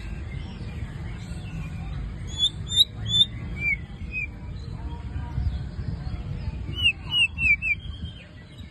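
A bird chirping in two quick runs of short, sharp, swooping notes, the first about two and a half seconds in and the second about seven seconds in.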